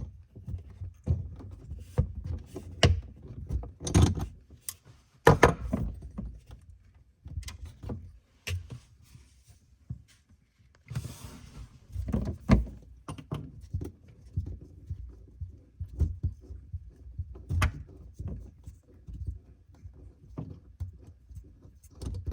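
Irregular knocks, clunks and small rattles of hands working a water supply line loose from its fitting among the pipes in a cabinet under a kitchen sink, with a short rustle about halfway through.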